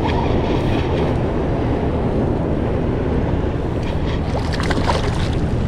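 Steady low rumble and hiss of wind and waves on a small fishing boat, with wind buffeting the microphone and a few faint clicks about four to five seconds in.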